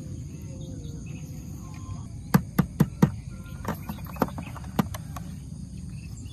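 About seven sharp clicks or knocks, quick at first and then more spread out, starting a little over two seconds in. A steady low rumble runs underneath.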